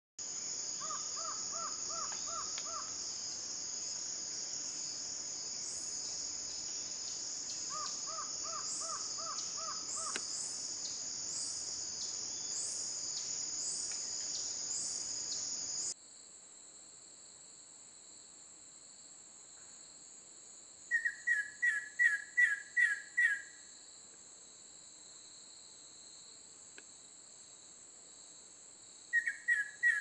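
A steady high-pitched insect drone with a bird singing short series of quick repeated notes: twice softly in the first half, then, with the drone fainter, two loud series of about seven notes each, the second near the end.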